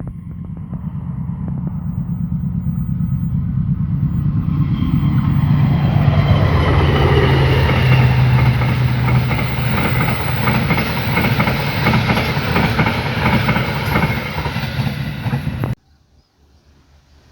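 A train passing close by: a low, steady engine hum and the rush of wheels on rails grow louder over the first several seconds, then hold. The sound cuts off suddenly near the end.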